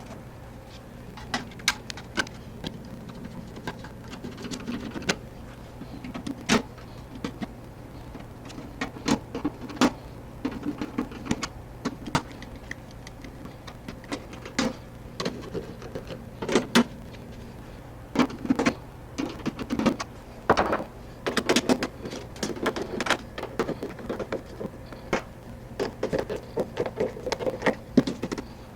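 Irregular clicks, knocks and rattles of refrigerator panels and parts being handled and refitted, busier in the second half, over a steady low hum.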